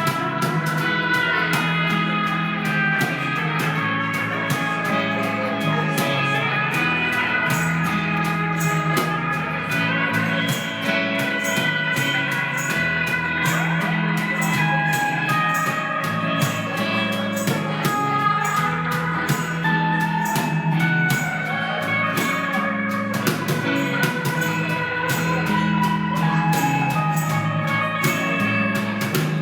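A live band playing an instrumental passage led by guitar over a steady bass line, with quick, evenly spaced high ticks keeping time.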